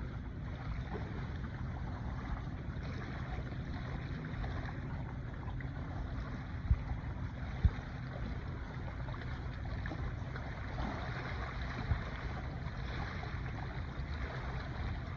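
Ocean surf washing in along the shoreline: a steady wash of water over a low rumble. Around the middle come two sharp knocks about a second apart, and there is one more later.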